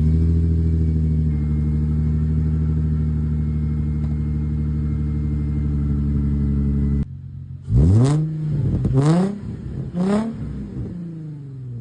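Nissan 350Z V6 running through a new ISR single-outlet exhaust: it idles steadily for about seven seconds after starting. It then gets three quick throttle blips, each rising and falling in pitch, and drops back to idle.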